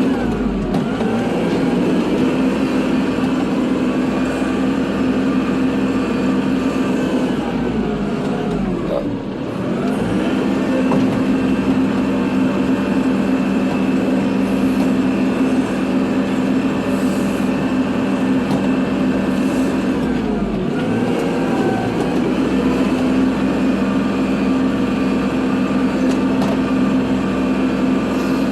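Kubota tractor's diesel engine running steadily under load while plowing snow. Its pitch drops and climbs back up twice, about nine seconds in and again about twenty-one seconds in.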